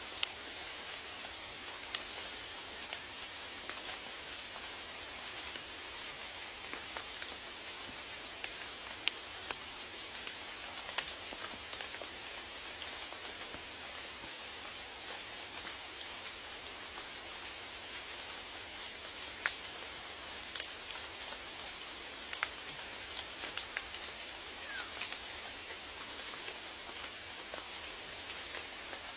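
Steady rain falling, a constant hiss with scattered sharp drip ticks of single raindrops hitting a surface.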